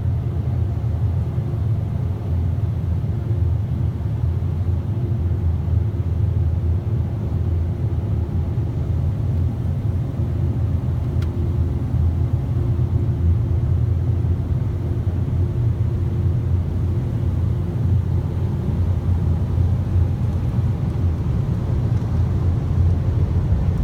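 Car wash air dryer blowers heard from inside the car's cabin: a steady, loud low rumble with a faint steady hum above it.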